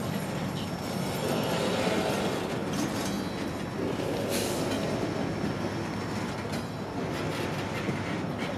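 Freight train rolling on the rails: a steady running noise of cars and steel wheels on track.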